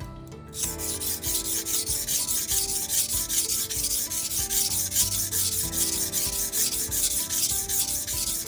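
Misono petty knife's blade being stroked back and forth on a whetstone, a scraping rub in rapid, even strokes, several a second, starting about half a second in.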